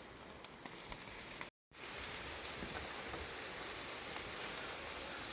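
Sausage sizzling on aluminium foil over a campfire: a steady frying hiss, quieter with a few faint clicks at first, louder after a brief gap about one and a half seconds in.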